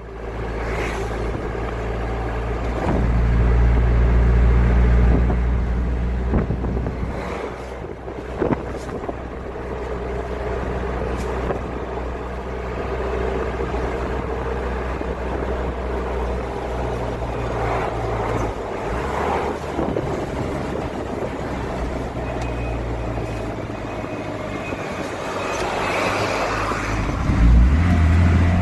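Car engine and road noise heard from inside the car through a dashcam microphone: a steady low hum that swells for a few seconds near the start and rises sharply near the end.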